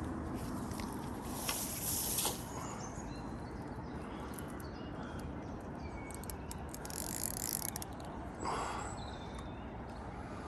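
Fishing reel clicking in a few short bursts as a hooked carp is played on a float rod.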